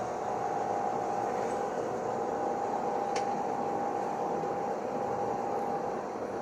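Gillig hybrid transit bus running: a steady drone with a held whine over it, and one sharp click about three seconds in.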